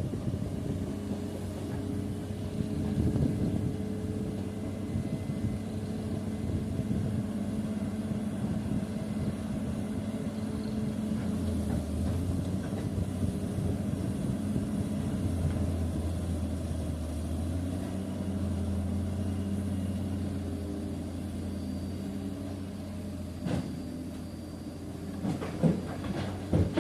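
A heavy diesel engine of construction machinery running steadily at a low, even speed, with a few sharp knocks near the end.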